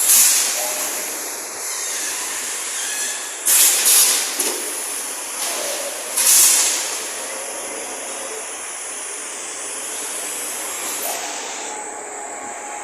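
Robotic weld-shop machinery giving a steady hiss, broken by four short, loud hissing blasts that each die away quickly: one at the start, two close together about three and a half seconds in, and one just after six seconds.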